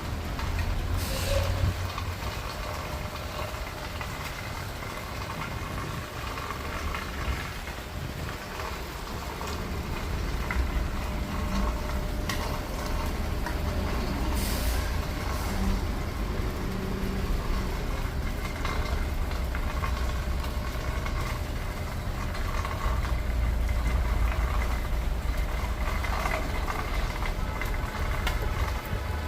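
Heavy vehicle engine idling with a low, steady rumble. Short hisses of air, typical of air brakes, come about a second in and again near the middle.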